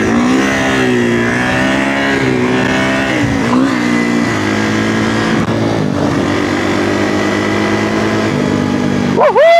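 Kawasaki KX450F single-cylinder four-stroke dirt bike engine running under way, its pitch rising and falling with the throttle. A loud shouted voice cuts in near the end.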